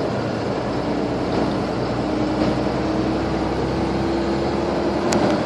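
International 4300 box truck's DT466 diesel engine running steadily under way, heard from inside the cab, with a faint whine that creeps up in pitch over the last few seconds. A single sharp click about five seconds in.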